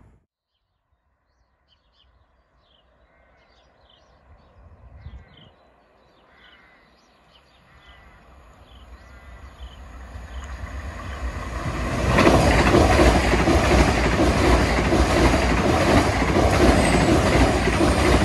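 A GWR passenger train approaches, growing steadily louder, then passes close by at speed from about twelve seconds in. The pass is a loud, steady rush of wheels on rail with a rapid rhythmic clatter.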